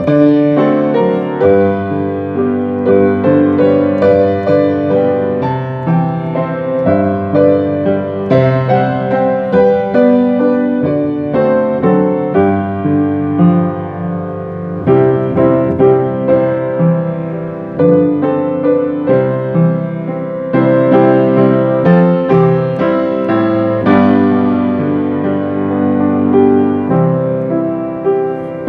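Piano playing a slow, gentle worship song instrumentally: held chords under a melody line, new notes struck about every second.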